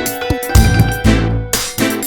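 Tsimbaly (Belarusian hammered dulcimer) music: quick struck notes ringing on over a deep bass pulse that comes in about half a second in.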